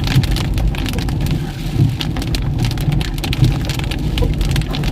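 Heavy rain hitting a moving Toyota Fortuner, many sharp drop impacts in quick succession over the steady low rumble of the vehicle and road.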